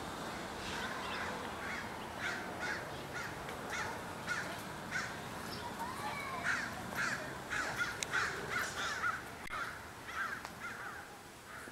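Birds calling: a run of short repeated calls, a couple a second, busiest in the middle and thinning out near the end.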